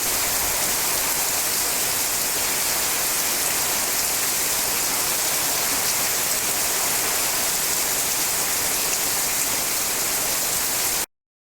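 Steady, unbroken hiss of falling water, even and unchanging, that cuts off suddenly near the end.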